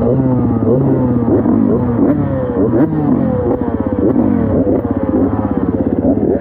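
Dirt bike engine running under changing throttle: its pitch jumps up quickly and sinks back again roughly every second.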